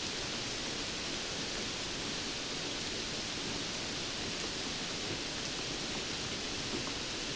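Steady rainfall: an even, unchanging hiss.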